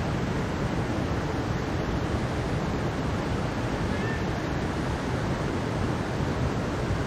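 Mountain stream rushing over rocks: a steady, even wash of water noise, heaviest in the low range.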